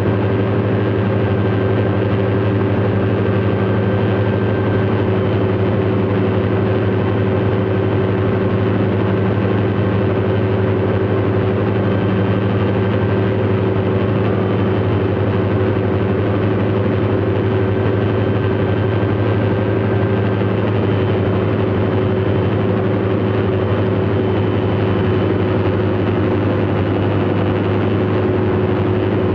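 Light aircraft's piston engine and propeller running at steady power, an even drone with no change in pitch or level.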